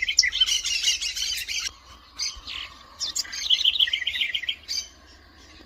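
Southern house wren (corruíra) singing: a rapid run of high chattering notes that ends nearly two seconds in, then a short note or two and a second rapid phrase from about three to nearly five seconds in.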